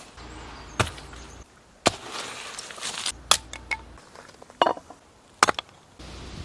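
Chopping: about five sharp, separate knocks spread a second or so apart, over a faint outdoor background.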